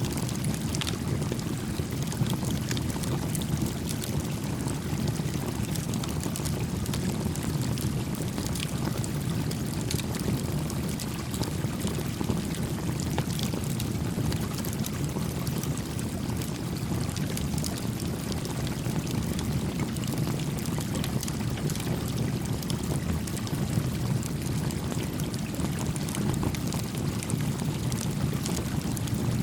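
A gently flowing stream making a steady low rushing sound, with a small campfire crackling over it in scattered faint pops.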